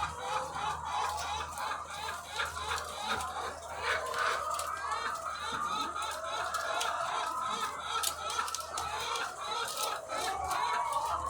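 A large flock of egg-laying hens clucking and chattering together in a continuous din, with a few sharp clicks and a steady low hum underneath.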